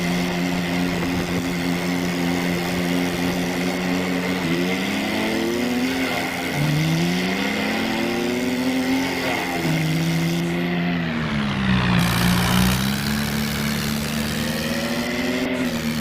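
Simulated tractor engine sound idling and revving, its pitch rising and falling several times, over a steady high whine.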